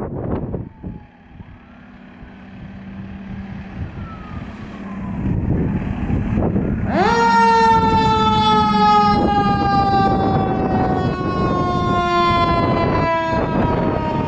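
Fire truck siren on a 2023 Seagrave Capitol 100-foot tractor-drawn aerial ladder truck running on an emergency response, with engine and road noise building as it approaches. About seven seconds in, the siren jumps up to a loud, high wail that then slowly falls in pitch.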